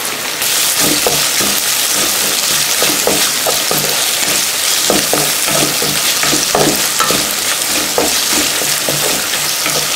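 Small sambar onions, green chilli paste and ginger-garlic paste sizzling in hot oil in a wok, the sizzle growing louder about half a second in. A wooden spatula stirs and scrapes the pan in short, irregular strokes, roughly twice a second.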